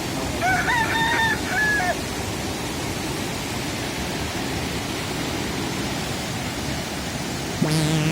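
Mountain stream rushing steadily. In the first two seconds a brief pitched, crowing-like call sounds over it. Near the end a sudden low steady tone starts with a high falling whistle.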